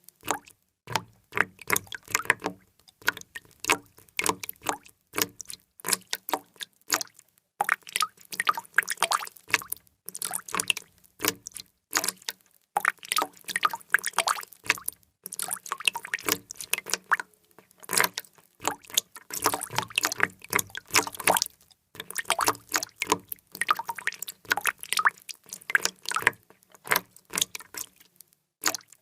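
Water drops dripping and plinking in rapid clusters of many short, sharp drops, with brief pauses between clusters.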